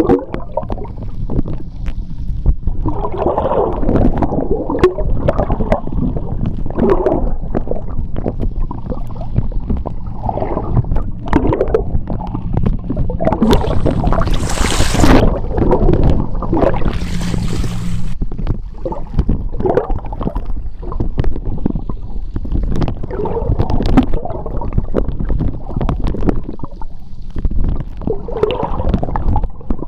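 Underwater sound of sea water: a constant low rumble of moving water with uneven gurgling surges, and two short hissing bursts of bubbles about halfway through.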